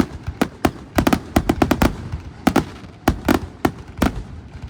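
Aerial fireworks shells bursting in quick succession: sharp, irregular bangs, several a second, with a brief lull about two seconds in.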